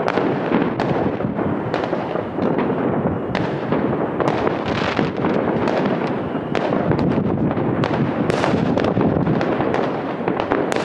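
Many fireworks going off at once: a continuous din of overlapping bangs and crackling, with frequent sharp reports standing out.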